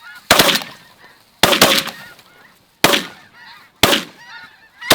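Shotgun blasts as hunters fire on snow geese over decoys: five shots, about a second apart, the last right at the end. Snow goose calls keep up between the shots.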